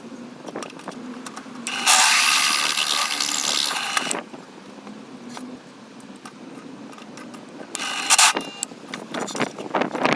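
DIY belt grinder driven by an angle grinder, run in short bursts. A loud, high-pitched whine starts about two seconds in and stops abruptly two seconds later. A brief burst comes near eight seconds and more starts shortly before the end, with clicks and knocks in between.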